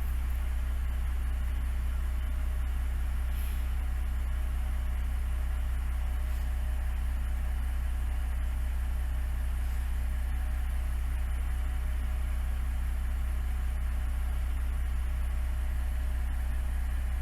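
Diesel railcar engine idling steadily, a constant low rumble with a steady hum above it.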